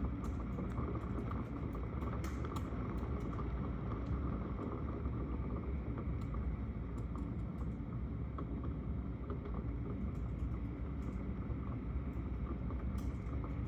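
Steady rain with a deep rumble, sprinkled with scattered sharp ticks of drops striking.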